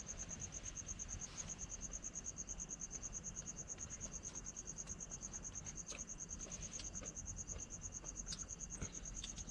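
Crickets chirping in a steady, rapid pulsing rhythm, with a few faint clicks and ticks in the second half.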